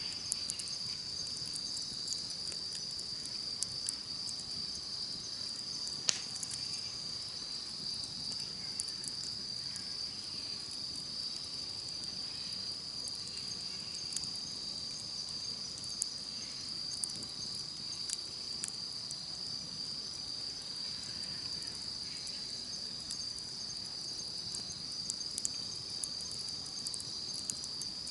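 A steady, high-pitched chorus of insects trilling, with a campfire crackling in scattered small pops, the loudest pop about six seconds in.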